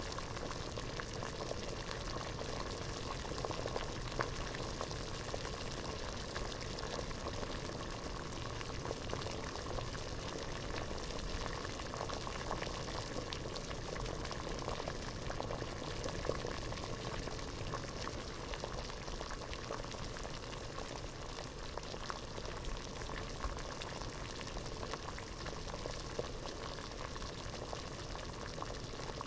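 Water at a rolling boil in a pot, a steady dense bubbling with many small irregular pops.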